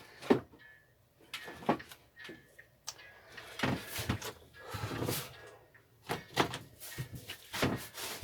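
Irregular clunks, knocks and scrapes of a part on a small lawnmower engine being wiggled and forced loose by hand.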